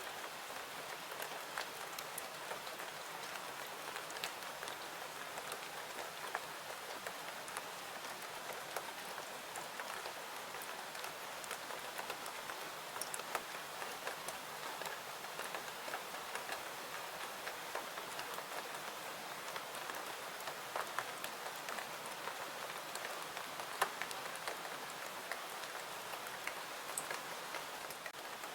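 Steady rain falling, with scattered sharp crackles and pops from a wood fire; the loudest pop comes about 24 seconds in.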